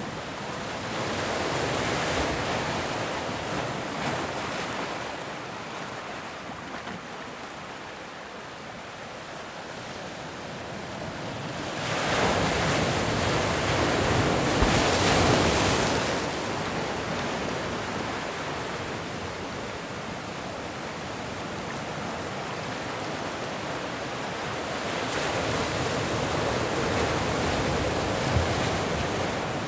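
Ocean waves breaking on a beach, a steady surf wash that swells and eases, with the biggest wave crashing about twelve to sixteen seconds in. Some wind noise on the microphone.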